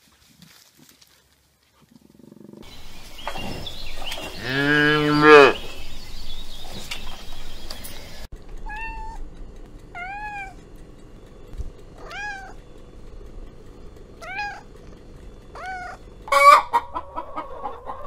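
A domestic cat meowing five times, short meows one to two seconds apart, after one long, loud animal call. A chicken starts clucking near the end.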